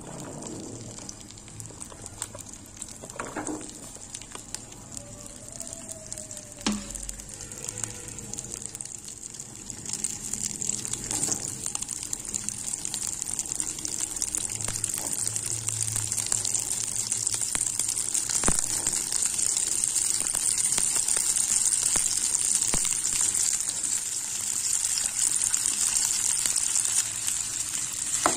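Chopped okra frying in oil in a metal pan: a steady sizzle that grows louder about ten seconds in, with a few light knocks.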